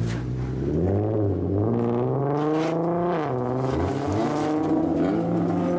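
Engines of lowered cars pulling away at low speed, the engine note rising and falling several times as they accelerate and ease off.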